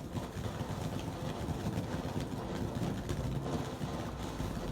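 A lit firework burning, giving a steady rumbling hiss with dense crackling throughout.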